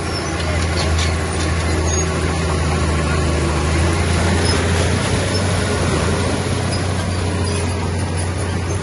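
Heavy earthmoving machine's diesel engine running steadily, a deep, even drone with no change in pitch.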